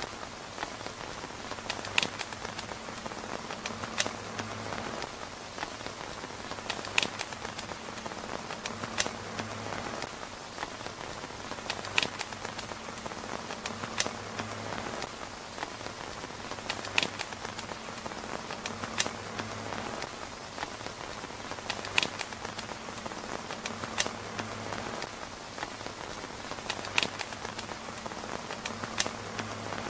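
Steady rain pattering on a tent's fabric roof. Sharp single ticks land about every one to two seconds and are the loudest sounds.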